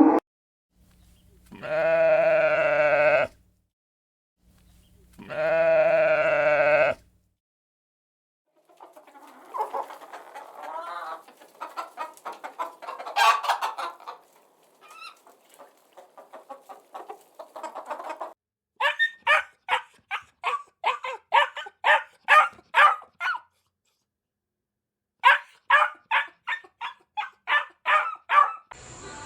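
Farm animals calling: two long bleats of about two seconds each, then chickens clucking irregularly, then two runs of short, quick calls at about three a second.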